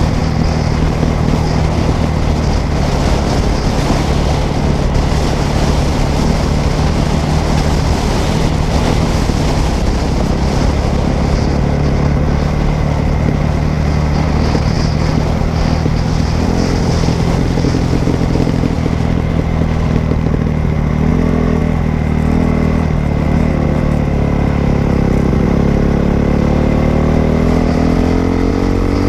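Dirt bike engine running steadily while being ridden, rising in pitch as it speeds up near the end.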